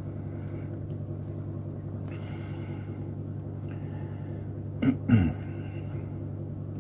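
Steady low electrical hum from the garage heater, with a short throat-clearing sound from the person working about five seconds in.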